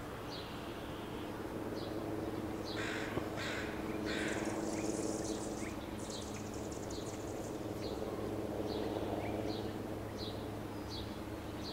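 Anna's hummingbirds giving short, high chip calls about once a second, with a buzzy high chatter in the middle. Three harsh calls come in quick succession a few seconds in, over a steady low hum.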